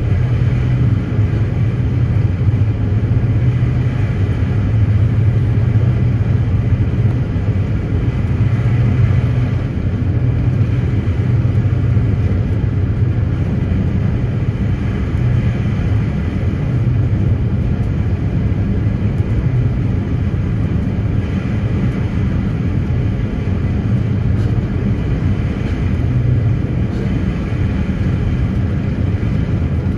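Passenger ferry's engines running, a steady low drone.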